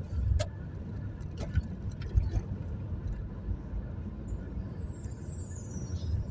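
Steady low rumble of road traffic, with a few sharp clicks in the first couple of seconds and a high, falling squeal near the end.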